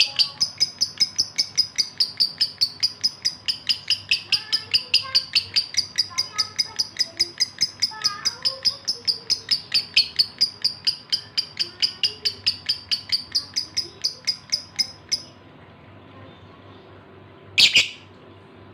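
Male lovebird in breeding condition chirping fast and without a break, about four to five high chirps a second: its calling for a female. The chirping stops suddenly about fifteen seconds in, and one short loud call follows near the end.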